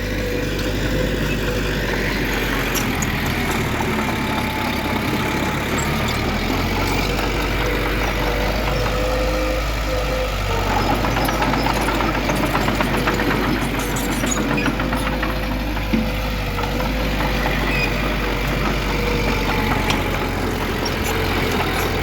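Heavy diesel construction machinery running steadily, a low engine rumble with a constant whine and rapid light clatter, and one sharp knock about 16 seconds in.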